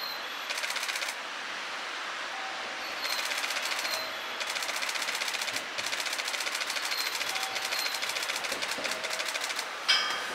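Approaching E001 series TRAIN SUITE Shiki-shima: fast, even clicking in several spells over a steady hiss. A sudden, louder pitched sound near the end as its horn begins.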